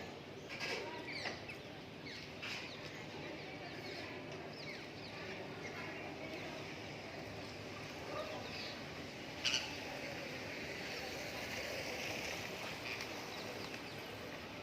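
Parrots calling in short, sharp screeches: a few near the start and the loudest about nine and a half seconds in, over steady background noise.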